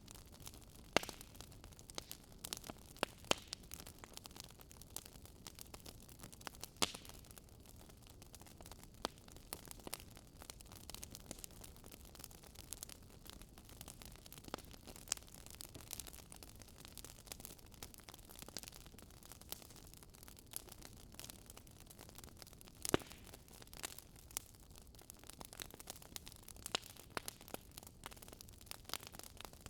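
Wood fire crackling: irregular sharp pops and snaps, a few louder ones, over a faint steady hiss.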